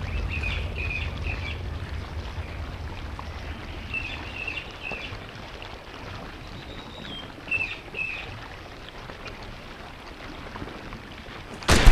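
Woodland birds chirping in short repeated phrases, over a low rumble on the microphone that fades during the first few seconds. A single loud, sharp bang comes near the end.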